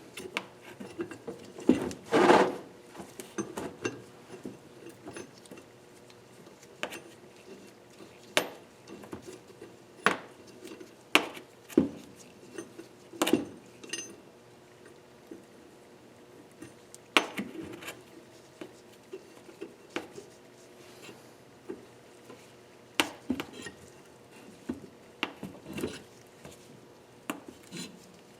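Metal tools and engine parts clinking and knocking irregularly, about one sharp clink every second or two, during cylinder-head disassembly; a faint steady hum runs underneath.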